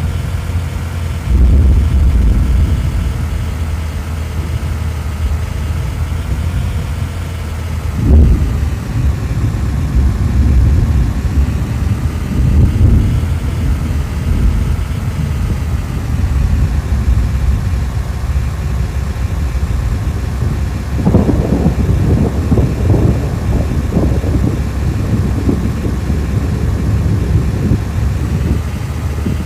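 A heavy, continuous low rumble of wind and moving-vehicle noise, with a faint whine that slowly rises and falls in pitch. Louder surges come about a second and a half in, around eight seconds and around thirteen seconds, and choppy gusts follow about twenty-one seconds in.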